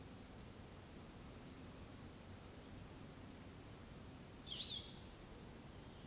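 Forest ambience: a faint, high, thin bird song of quick short notes in the first three seconds, then one short, louder bird chirp about four and a half seconds in, over a steady low background noise.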